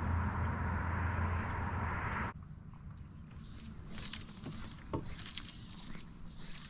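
Small water sounds around a canoe: light splashes, drips and faint knocks against the hull. These follow a steady hiss with a low hum that cuts off abruptly about two seconds in.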